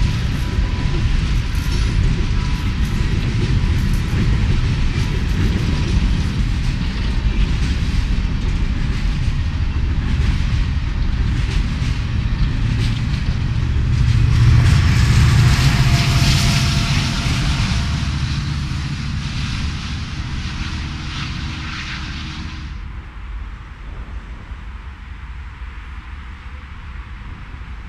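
Coal train cars rolling over a steel girder bridge: a steady heavy rumble with fast wheel clatter, loudest about halfway through. Near the end it gives way to a quieter low rumble.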